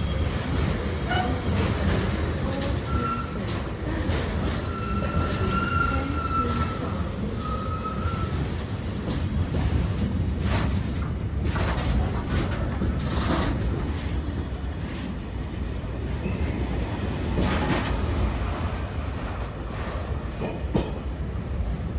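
Train passing at speed: a steady heavy rumble of wheels on rails, with a thin high tone a few seconds in and sharp clicks in the middle and again near the end.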